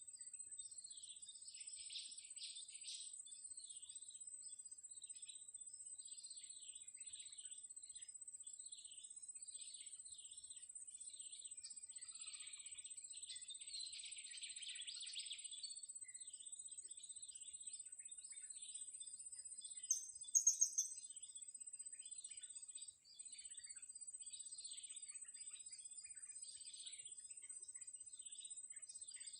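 Small birds chirping and twittering in quick, high, thin notes, with a few louder sharp calls about two-thirds of the way through, over a steady high-pitched whine.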